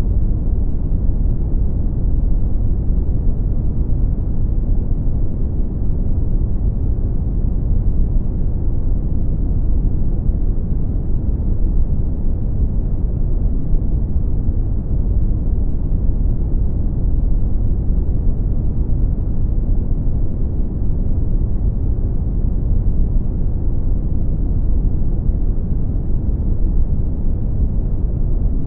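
Brown noise: a steady, deep rushing hiss with most of its weight in the low rumble and little treble, unchanging throughout.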